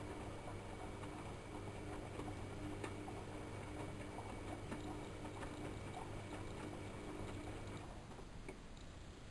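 AEG Electrolux Lavamat L6461 washing machine in a 95 °C boil wash: the motor hums steadily as it turns the drum, with water sloshing and small clicks from the tumbling laundry. The motor hum cuts off about eight seconds in, leaving the water sound quieter.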